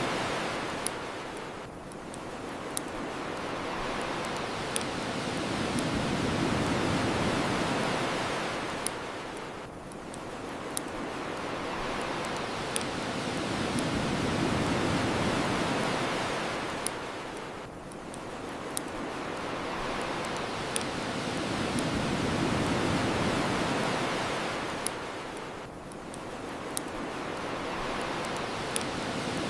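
Ocean surf washing onto a shore, swelling and ebbing about every eight seconds, with the sharp pops of a crackling bonfire every second or two.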